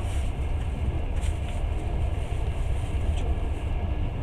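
Passenger train running along the track: a steady low rumble of the wheels and carriage, with a couple of faint short clicks.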